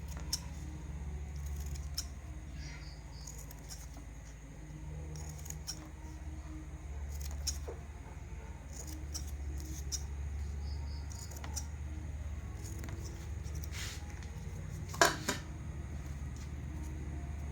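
Scattered small clicks and taps of handling, with a louder pair of clicks about fifteen seconds in, over a steady low hum.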